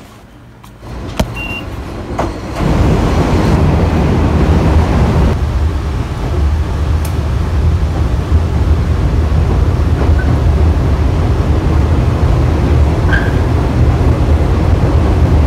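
Chichibu Railway train running, heard from inside the passenger car: a loud, steady low rumble that starts about two and a half seconds in, after a quieter opening with a few clicks and a short beep.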